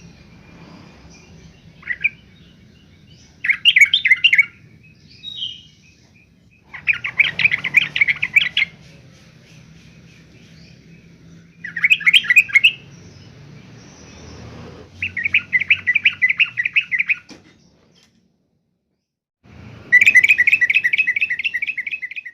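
Yellow-vented bulbul (trucukan) singing: a series of short phrases of rapid repeated notes, each a second or two long, with gaps of a few seconds between.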